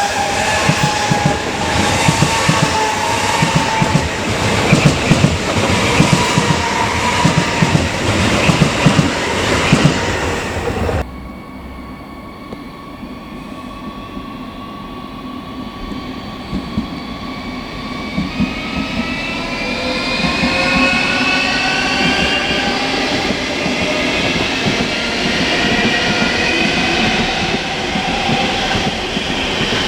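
A train running through the station with dense clattering of wheels over rail joints for about the first ten seconds, stopping abruptly. It is followed by a quieter electric train whose motors whine with several tones rising steadily in pitch as it accelerates.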